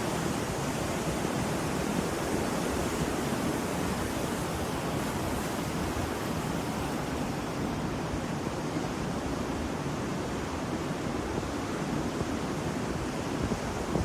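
Ocean waves washing on the shore: a steady rushing surf.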